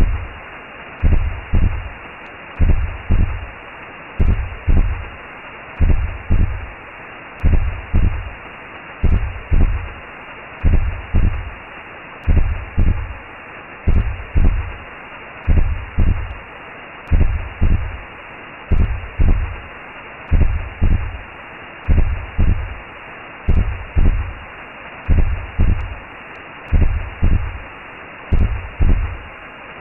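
Recreated womb sound: a steady muffled whooshing hiss with a regular heartbeat of paired low thumps (lub-dub) running through it.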